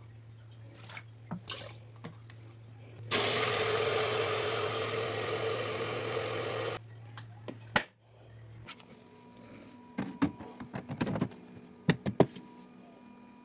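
Xiaomi X20 Max robot vacuum's base station washing its mop pads: a steady low hum, then about three seconds in a loud rush of water-handling noise that lasts nearly four seconds and cuts off suddenly. A sharp click follows, then scattered clicks and rattles.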